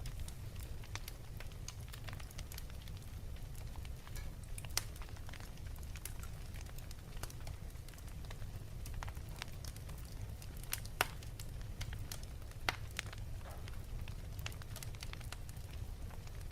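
Fireplace fire crackling: scattered sharp pops over a steady low rumble, with the loudest pops about 5, 11 and 13 seconds in.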